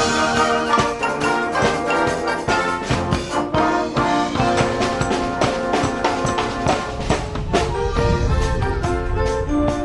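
A marching wind band playing: brass (trumpets and trombones) holding chords over a steady drum beat, with the low brass and bass drum growing heavier about two-thirds of the way through.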